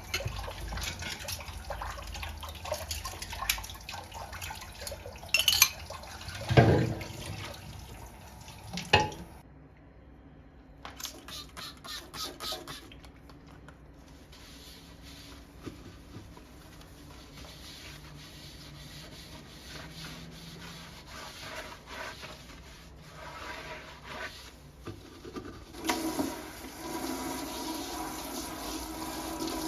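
Water running from a kitchen tap into the sink, stopping and starting, with several sharp knocks in the first third and louder running water near the end.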